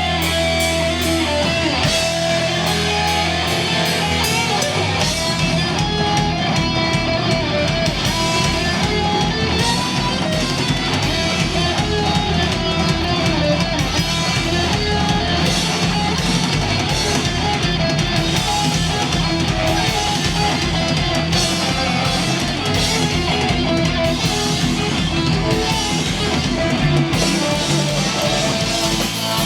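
Heavy metal band playing live: distorted electric guitars over a drum kit, with a fast, steady kick-drum beat coming in about five seconds in.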